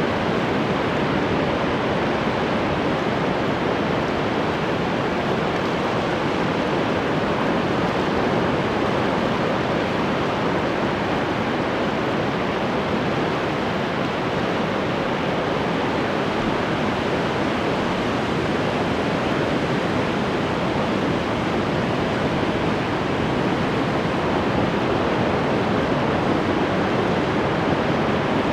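Ocean surf: a steady, even wash of breaking waves with no distinct single wave crashes standing out.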